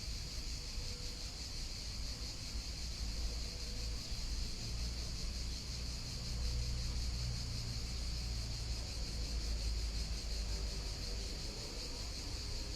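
Steady outdoor ambience of a calm river flowing: an even high hiss over a low rumble that swells a little in the middle.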